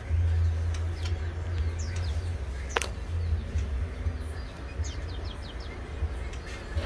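Faint, short, high bird chirps, with a quick run of four about five seconds in, over a steady low rumble; one sharp click a little under three seconds in.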